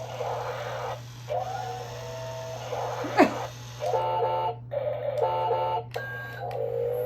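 Toy forklift's electronic sound effects: short beeping tones that step in pitch, repeating, then two quick runs of stacked beeps. A single sharp, loud squeak sweeps through about three seconds in.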